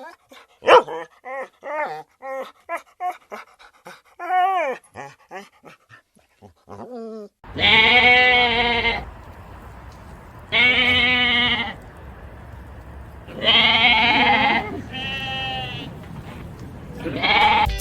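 A young dog whimpering and yipping in many short cries that bend up and down in pitch. About seven seconds in it gives way to a bleating animal: four long wavering bleats about three seconds apart, the loudest sounds here.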